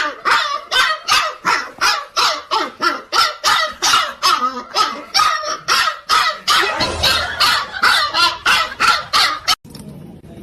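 A dog barking over and over in a quick, even rhythm, about three barks a second, cutting off abruptly shortly before the end.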